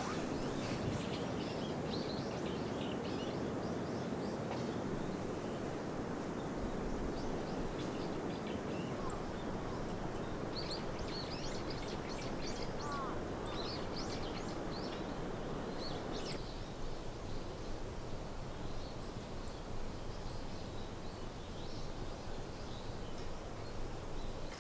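Outdoor ambience: small birds chirping over a steady rushing noise, which eases about two-thirds of the way through.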